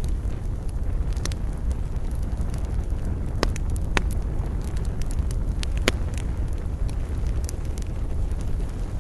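Wood campfire crackling, with scattered sharp pops, the loudest about three and a half, four and six seconds in, over a steady low rumble.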